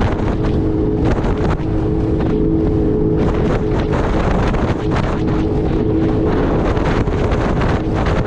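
Jet ski engine running under way with a steady droning tone, and heavy wind buffeting the microphone.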